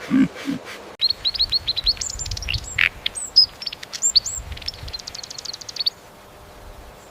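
A songbird singing rapid high chirps and trills that stop about six seconds in. It is preceded by the last of some low animal grunts in the first half-second.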